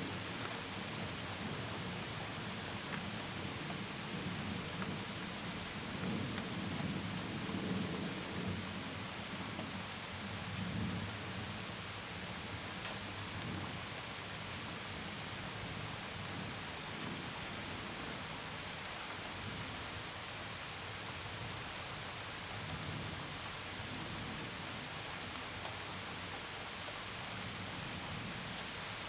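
Steady rain falling against a window and gutters, with crickets chirping faintly in a regular pattern. A low rumble swells and fades between about six and eleven seconds in.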